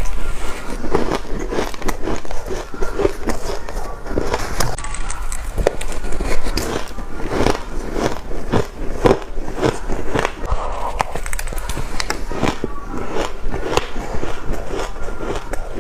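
Close-up crunching of shaved ice bitten and chewed by the spoonful: a dense, uneven run of crisp crunches.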